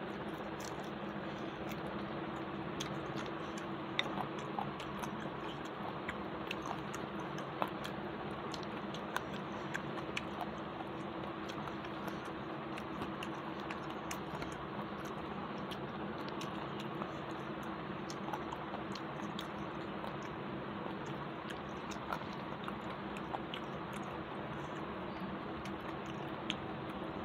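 A person eating rice and curry by hand, with close chewing and many small wet mouth clicks scattered through, over a steady low background hum.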